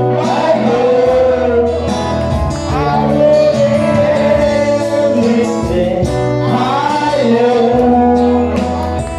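A band playing a slow ballad, with a singer's voice gliding between held notes over steady bass and guitar chords.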